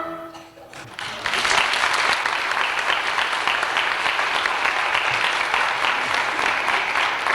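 Audience applauding, starting about a second in after a song ends and going on steadily, tailing off near the end.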